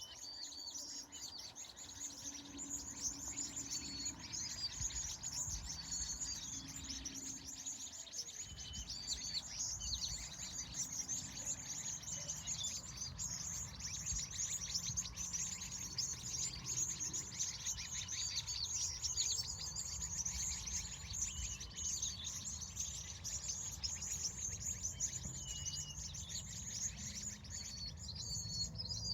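A dense chorus of many small birds chirping and twittering at once, with a steady low rumble underneath.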